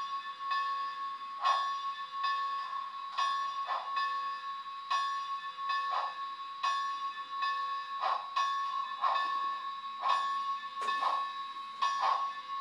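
HO scale model steam locomotive's sound decoder playing a steady ringing bell over steam chuffs, about one to two a second, as the engine pulls away.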